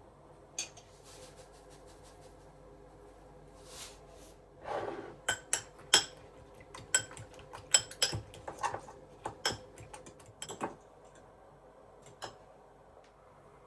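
Dishes and cutlery being handled: a quick run of sharp clinks and knocks, with a short scrape, over several seconds.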